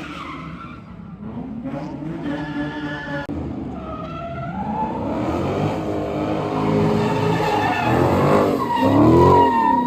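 A car drifting, its engine revving up and down over skidding tyres, getting louder toward the end.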